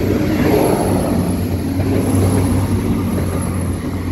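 Transport for Wales diesel multiple unit passing close by at a level crossing: a steady engine drone and the rumble of its wheels on the rails.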